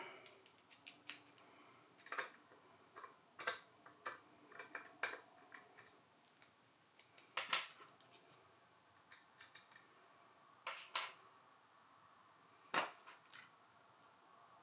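Small metal tools and screws clicking and clinking at irregular intervals, about fifteen faint taps, as a plate is unscrewed and taken off an ARRI Alexa cinema camera body.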